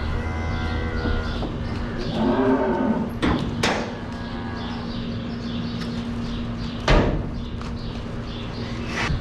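Dairy cow mooing twice in the first three seconds, then several sharp knocks about three and a half seconds in, near seven seconds and near the end, over a steady low hum.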